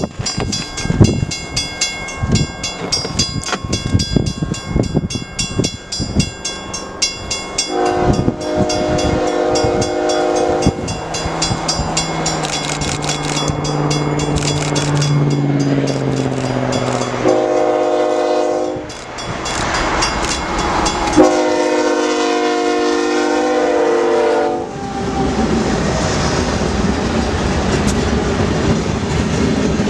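A freight train running by, its wheels clacking over the rail, then the lead locomotive's air horn sounding a chord in four blasts: long, long, short, long, the pattern of a grade-crossing signal. The horn belongs to BNSF ES44C4 6650. A steady rumble of the passing train follows.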